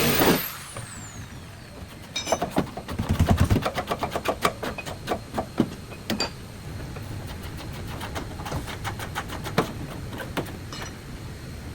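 Irregular clicks and knocks, several a second, from hand work on a car body, after a louder noise cuts off at the start.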